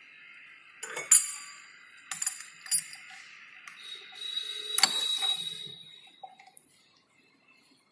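Hand tools and a steel workpiece being handled at a lathe: a series of sharp metallic clinks and taps, some of them ringing. About four seconds in there is a short rasping scrape of the kind a file makes on steel.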